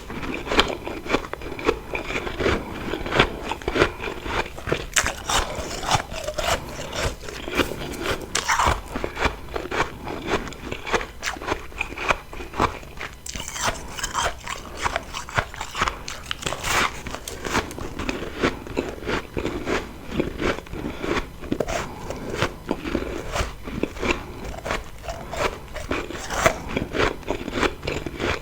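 Close-miked crunching and chewing of refrozen freezer frost: rapid, irregular crackly crunches as a mouthful of frosty ice is chewed, with occasional sharper bites.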